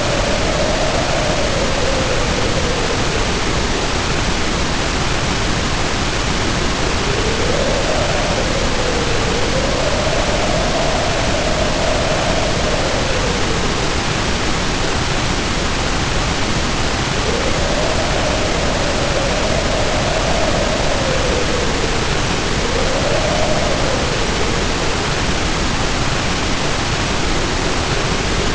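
Heavy rain pouring down in a steady, even hiss, with the wind howling over it; the howl swells and fades in gusts, its pitch rising and falling.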